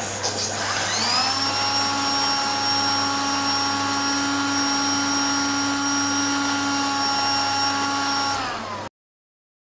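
Canister vacuum cleaner motor running, its pitch rising into a steady high whine after a click, then holding steady. Near the end the pitch dips slightly and the sound cuts off suddenly.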